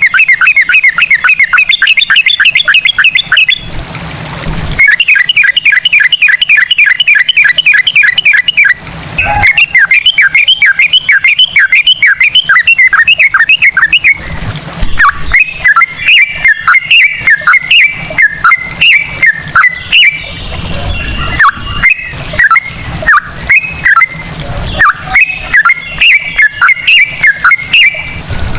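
Yellow-vented bulbul (trucukan) singing loudly: three long runs of fast repeated chirping notes with short gaps between them, then from about halfway a slower, more varied string of separate whistled notes.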